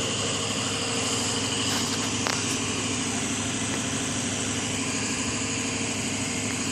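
A vehicle engine idling steadily, with one short click about two seconds in.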